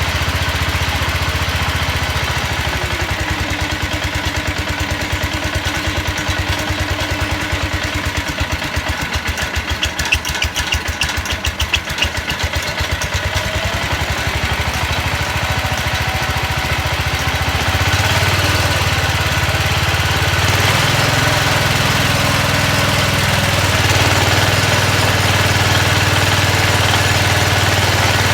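Single-cylinder engine of a vintage Sears garden tractor running, with a brief rattle about ten seconds in; it is throttled up about eighteen seconds in and again a few seconds later, settling at a faster, steady speed. It runs rough just after being cold started.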